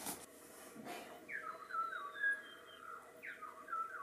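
A bird singing two whistled phrases, about two seconds apart. Each starts with a quick falling note and steps down through a few short notes, with a fainter thin falling whistle higher above.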